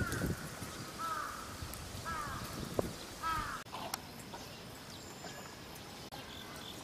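A bird calling over and over, about once a second, each call a short note that rises and falls. The calls stop about halfway through, leaving a quieter outdoor background.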